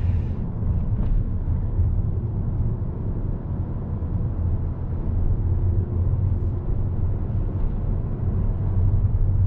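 Mk7 Volkswagen Golf R's turbocharged 2.0-litre four-cylinder engine and exhaust running steadily as the car drives, a continuous deep drone with no sharp events. The engine-sound setting is on eco, which is meant to switch off the interior sound generator, so this is the car's natural engine noise.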